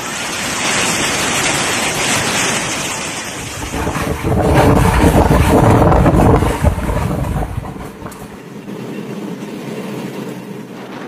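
Strong wind buffeting the microphone with a steady rushing noise. A heavier, deeper gust comes about four seconds in and lasts a few seconds before easing off.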